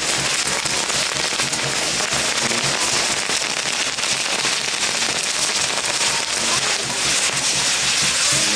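Fireworks crackling densely and without a break, a rapid stream of small pops at a steady level.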